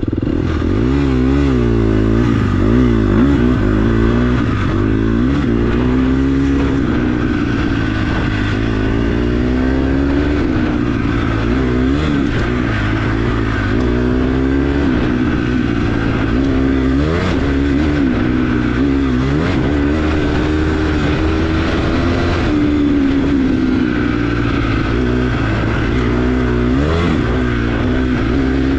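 Dirt bike engine under hard throttle, its pitch climbing and dropping over and over as it revs up through the gears and shifts.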